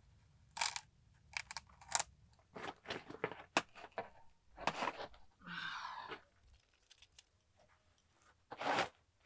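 Scattered short knocks, scrapes and crunches, irregularly spaced, with one longer rough scrape about six seconds in: hand work on the slab's wooden forms.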